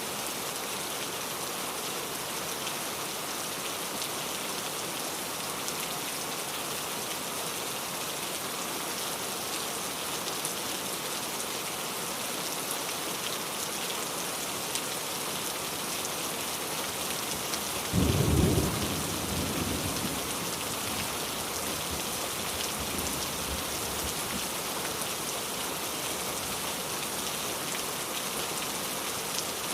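Steady rain falling, with one sudden low clap of thunder about two-thirds of the way through that rumbles away over a few seconds.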